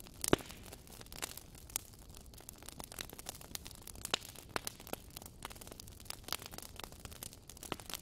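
Wood campfire crackling: irregular sharp pops and snaps over a faint hiss, the loudest pop about a third of a second in.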